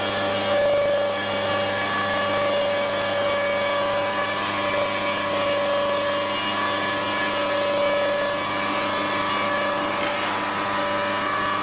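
CNC stone router's spindle running, a steady mechanical whine made of several held tones over a constant machine noise.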